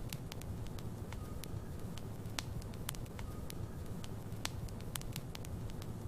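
Logs burning in a fireplace, crackling, with sharp pops at irregular intervals over a low, steady rumble of flames. A faint short whistle recurs every few seconds.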